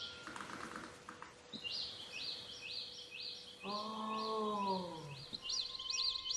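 A bird chirping over and over, a quick rising-and-falling chirp about two times a second, after a pause of about a second near the start. A short hiss comes early, and a low tone slides downward in pitch around the middle.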